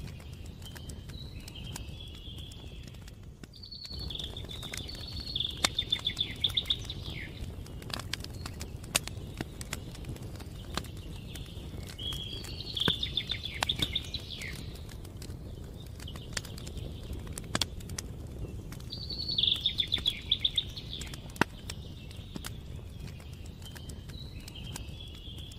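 A songbird singing a short, trilled phrase three times, several seconds apart, with fainter calls between, over a campfire crackling with scattered sharp pops and a low steady rush underneath.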